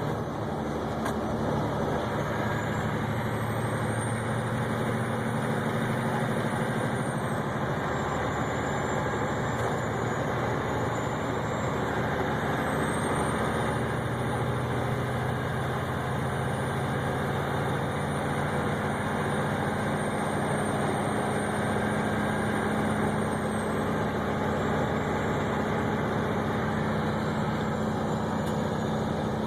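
Steady engine drone and road noise heard from inside a vehicle's cab while it drives along a highway, with a faint high whine drifting up and down above it.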